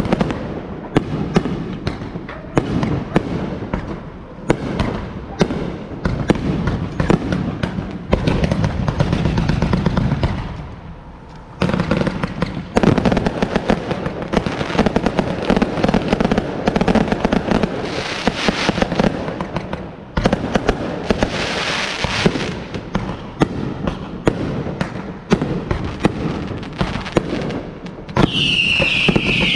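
Fireworks going off in a rapid, continuous string of bangs and crackling, with a falling whistle near the end.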